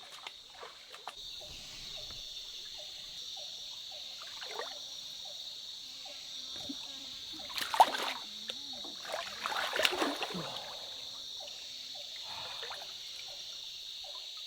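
Splashing in shallow water, twice, loudest about eight seconds in, over a steady high chirring of night insects. Earlier a short low call repeats about twice a second.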